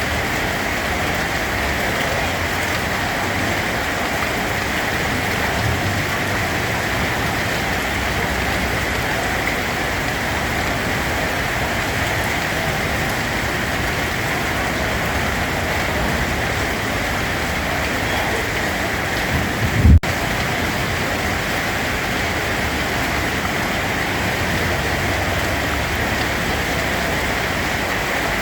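Rain falling steadily, an even hiss of drops, with one brief low thump about two-thirds of the way through.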